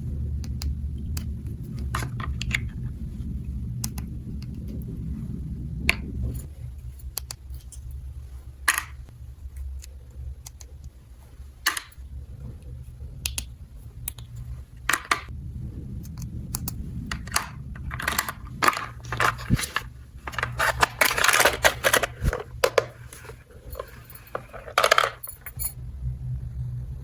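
Small plastic toy pieces being handled: scattered clicks and light clattering, with a busier run of clatter about two-thirds of the way through, over a steady low hum.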